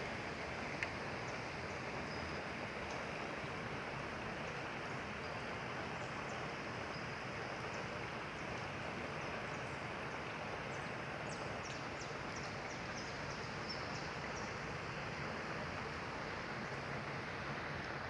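Heavy rain falling steadily: a dense, even hiss with scattered faint high ticks.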